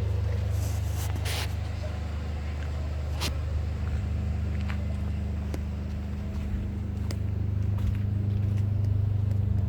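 A steady low mechanical drone from running machinery, with a few faint clicks and rustles over it.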